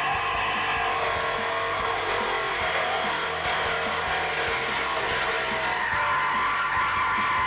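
Reciprocating saw cutting through the Mustang's steel factory exhaust pipe, running steadily, under background guitar music.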